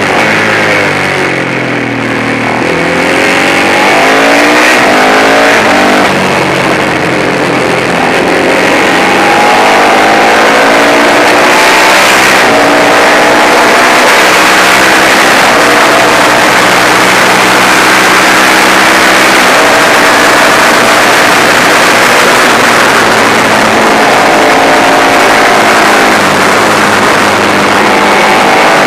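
Manx Norton single-cylinder racing engine at full race pace, heard from onboard. The pitch dips near the start as it slows for a corner, then climbs in a series of rises as it accelerates up through the gears, with a steady rush of wind noise over it.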